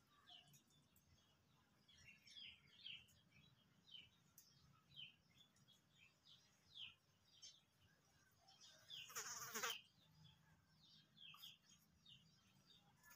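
Faint, scattered chirps of small birds: short, high, falling notes, one or two at a time every second or so. About nine seconds in comes a brief, louder rustling burst.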